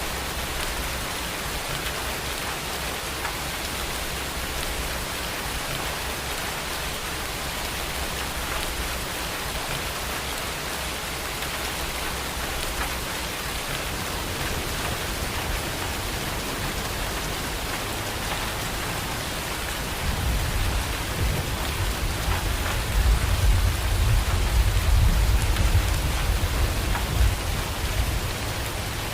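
Steady rain pattering down, with a low rumble of thunder that builds from about halfway through and is loudest near the end.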